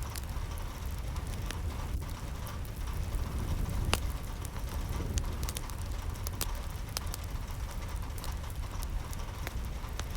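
Steady rain with a low rumble underneath and many scattered sharp ticks of drops hitting a surface, one louder tick about four seconds in.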